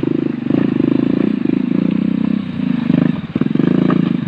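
An engine running steadily with a fast, even firing beat, easing off briefly about three seconds in and then picking up again.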